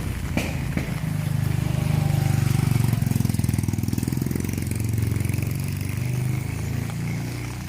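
A vehicle engine running close by with a low, pulsing hum. It grows louder over the first couple of seconds, then slowly fades, as it passes.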